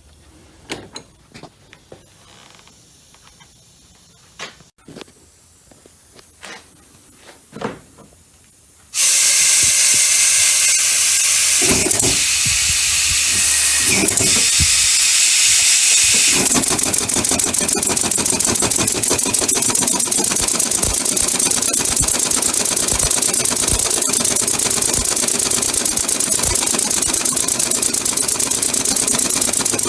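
Compressed air hissing loudly through a homemade eccentric-drive air engine, which is leaking badly. It starts suddenly about nine seconds in after a few light knocks, and from about halfway a fast, even ticking runs along with the hiss.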